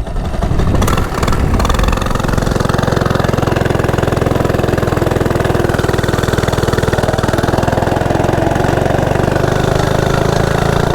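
Coleman CT100U minibike's small single-cylinder four-stroke engine, governor removed, idling; it is a little uneven for about the first two seconds, then settles into a steady even idle.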